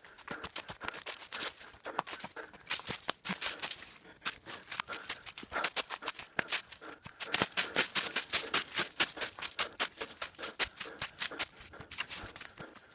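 Quick footsteps crunching and scuffing on a rocky, gritty trail, several sharp steps a second, as a runner or hiker moves along it.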